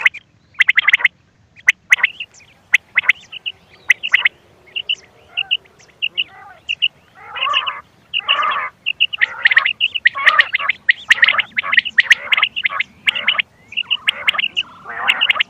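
Recorded quail calls played as a hunting lure: a fast run of short, repeated chirps mixed with harsher raspy bursts, coming in quick clusters with brief gaps.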